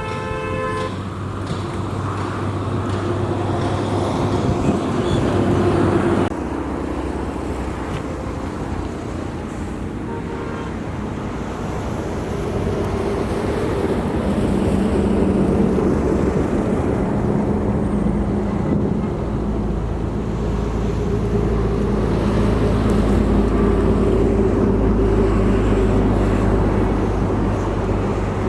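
Motor vehicles running past on a road: steady engine hum that swells and fades as they go by, with a short horn-like toot right at the start.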